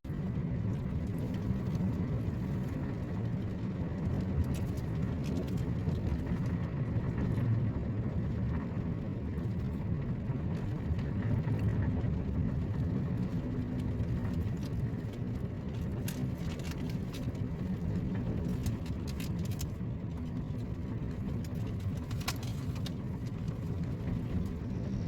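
Steady rumble of a car driving, road and engine noise, with scattered light ticks.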